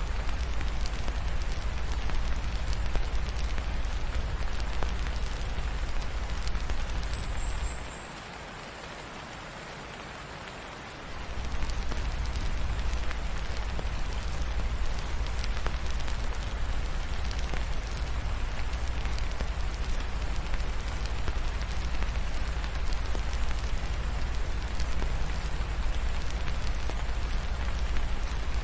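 Steady rain falling, mixed with a crackling fireplace giving scattered small clicks. A deep low rumble underneath drops out for about three seconds roughly a third of the way in, then returns.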